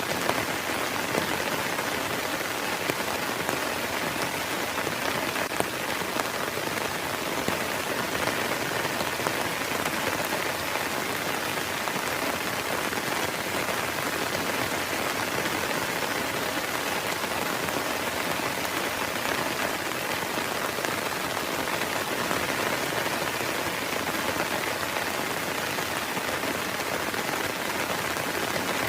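Heavy rain falling steadily, with scattered sharper drop hits standing out.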